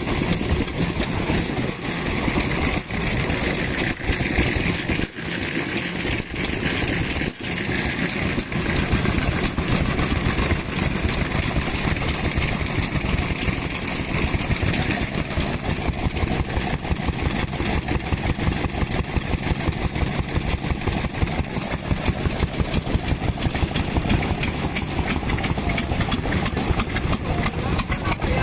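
Vintage stationary kerosene engine running with a rapid, even exhaust beat.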